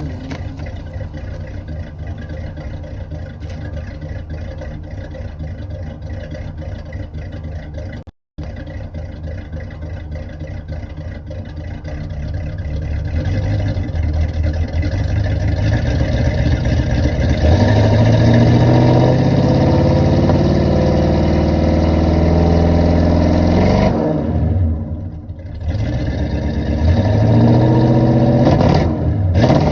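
Chevrolet Caprice engine running rough on a cold start, struggling to idle, then revved: the pitch climbs about two-thirds of the way in, holds, falls back with a brief stumble, and climbs again near the end.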